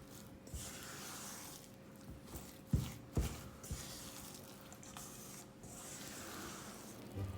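Spatula folding a thick cookie dough in a mixing bowl by hand: irregular scraping and swishing, with two sharp knocks against the bowl a little under three seconds in.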